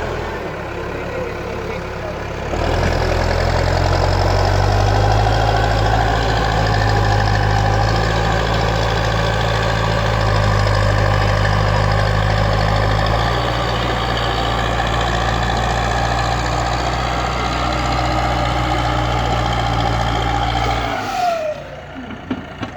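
Heavy diesel engine running hard on high throttle. It revs up about two and a half seconds in, holds steady, then throttles down near the end with a falling whine.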